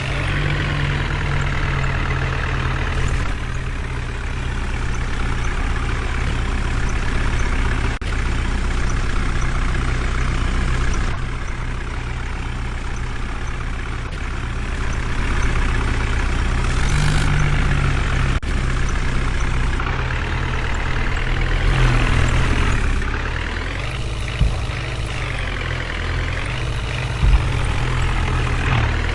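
Heavy diesel engine running steadily, its pitch rising and falling several times as it revs, with two short sharp knocks near the end.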